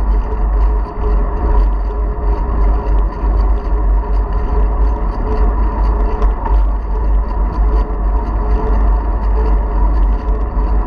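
Wind buffeting the microphone of a GoPro carried on a moving bicycle, a heavy steady rumble, with a steady hum and small clicks and knocks from the ride over the ground.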